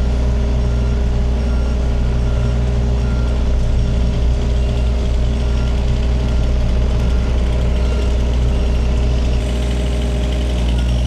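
Takeuchi TB230 mini excavator's diesel engine running steadily while it handles a log, with a faint short beep repeating at even intervals. The engine note eases slightly about nine seconds in.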